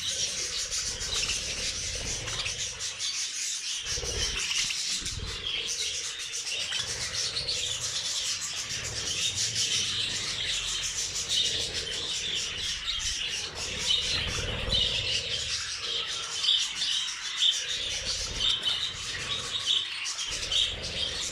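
A room full of budgerigars chattering and warbling together in a dense, continuous twitter of quick chirps, busier toward the end.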